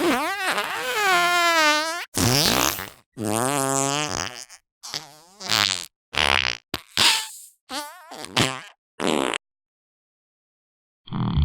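A rapid series of about nine fart sound effects, each a separate blast with wobbling, sliding pitch. The first lasts about two seconds; the rest are shorter, and the last is a brief high squeak. After a gap of nearly two seconds, a steady low buzzing rumble starts just before the end.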